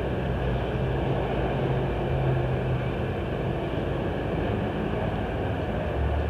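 Steady low rumble of car engines running, the low hum dropping in pitch near the end.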